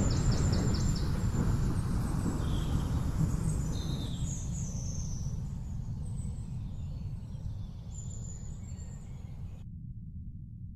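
Low rumble of thunder fading away slowly, with a few bird chirps over it in the first half.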